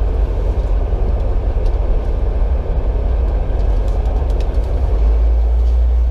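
Car running at low speed: a steady low rumble that gets heavier about five seconds in.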